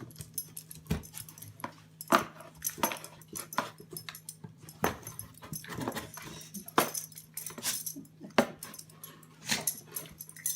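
A dog making short repeated sounds, about one a second, over a steady low hum.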